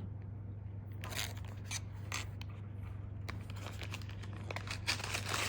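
Food being handled and eaten: scattered short, crisp clicks and crinkles over a steady low hum.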